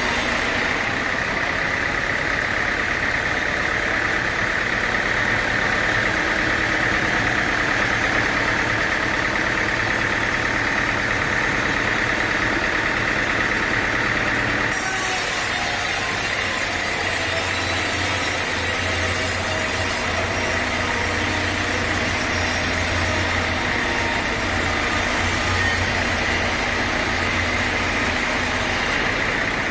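Sawmill machinery running steadily: engine noise with a steady high whine over it. The sound changes abruptly about halfway through.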